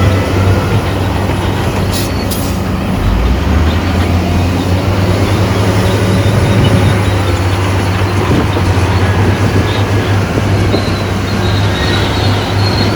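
Crawler bulldozer working: a heavy diesel engine running steadily under load, with metallic track noise.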